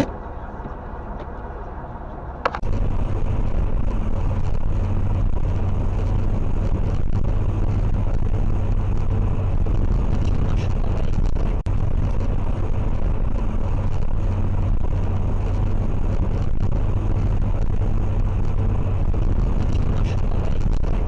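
Steady car road and engine rumble as picked up by a dashcam, quieter at first, then louder and constant from a sharp click about two and a half seconds in.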